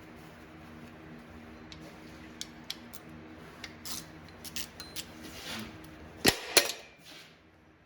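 Metal tools and transmission parts being handled on a shop bench: light clinks and taps, then two loud ringing metal clanks about six seconds in, over a steady low hum that stops shortly before them.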